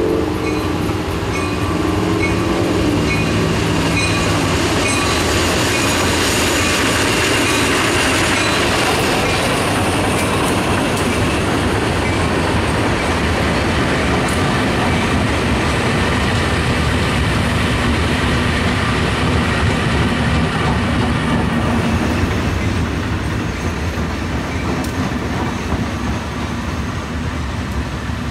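A freight train rolling past at close range: two EMD SW1200 diesel switchers pulling a string of dead electric locomotives. The rumble and wheel clatter of the units going by holds steady and eases slightly near the end. In the first few seconds a pitched engine or horn note sits above the rumble.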